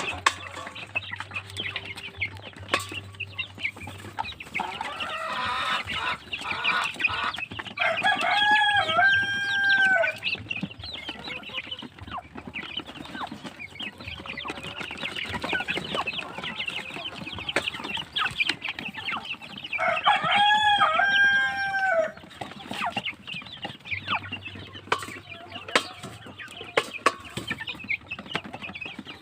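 A brood of DeKalb Brown baby chicks peeping continuously, mixed with scattered light taps. A rooster crows twice, about eight seconds in and again about twenty seconds in.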